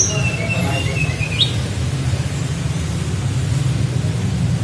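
Tledekan gunung (snowy-browed flycatcher) giving a brief thin whistled song phrase that ends in a quick upward flick, over a steady low hum.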